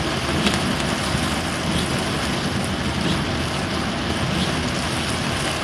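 Torrential rain falling on a vehicle, a loud steady hiss, with the vehicle's engine running underneath.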